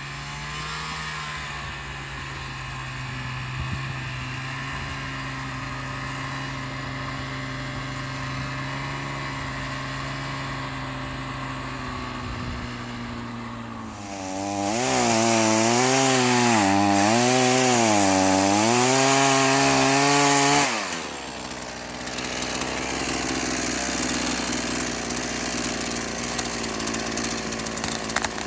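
Engine running steadily. About fourteen seconds in it is revved hard for about six seconds, its pitch rising and falling repeatedly, then drops back abruptly.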